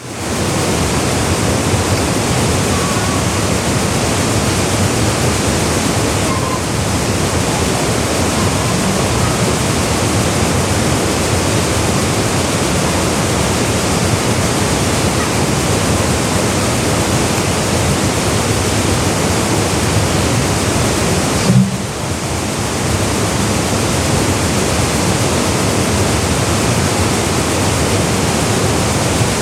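Waterfall pouring: a loud, steady, even rush of falling water. A brief low bump comes about two-thirds of the way in, and the rush dips for a moment right after it.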